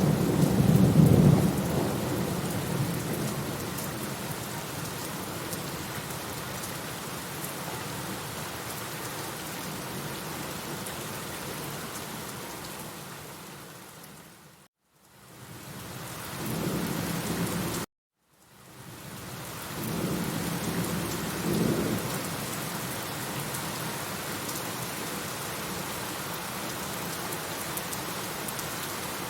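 Steady rain falling, with rolling thunder rumbling loudly near the start and again a little past halfway. About halfway through, the sound fades out to silence, comes back, then cuts out suddenly for a moment before the rain fades back in.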